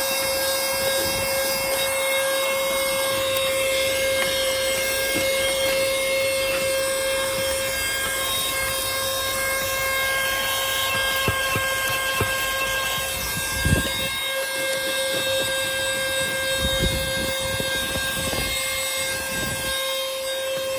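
Lachesis 9000Pa cordless handheld vacuum cleaner running steadily with a constant motor whine, sucking up dust from a car floor, with a few knocks of the nozzle against the floor in the second half.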